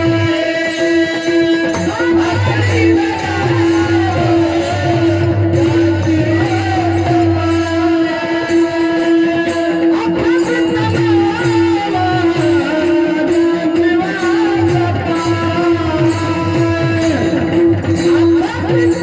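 Marathi Warkari bhajan: a male voice sings a long, winding melodic line over one steady drone note, with hand cymbals (tal) keeping a regular beat.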